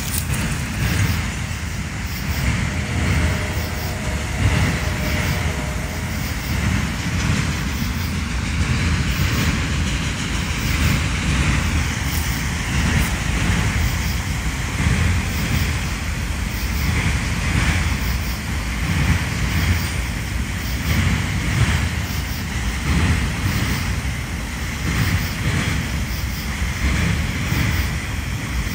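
BNSF freight train of autorack cars rolling past, a steady rumble of wheels on the rails.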